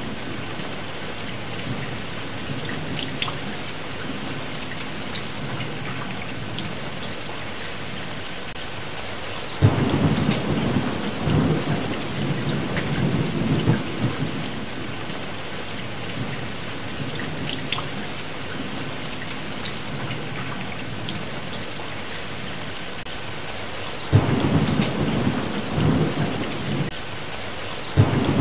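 Steady rain, with thunder rolling in twice: a sudden low rumble about a third of the way in that lasts several seconds, and another past three quarters of the way.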